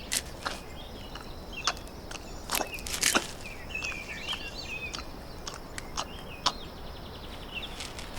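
Irregular snaps and crunches of a brown bear digging up and chewing roots, heaviest about three seconds in. Birds chirp in the background.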